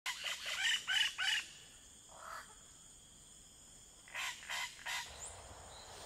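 Birds calling: a quick run of five or six short calls, one lower call a little after two seconds, then three more calls between about four and five seconds in.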